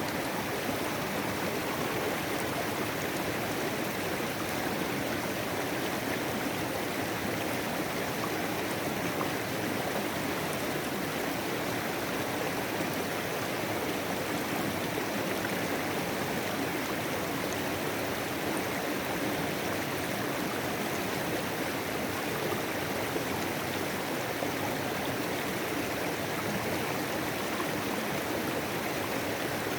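Clear mountain creek flowing, a steady, unbroken rush of water.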